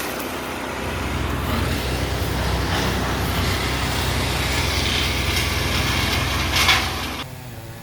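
A heavy engine running steadily, with a single sharp knock near the end, after which the sound cuts off abruptly.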